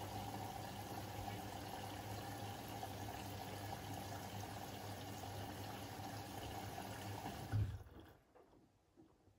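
Siemens iQ700 front-loading washing machine taking in water, a steady rush of water with a low hum. Near the end the inflow stops abruptly with a clunk, leaving only faint ticks.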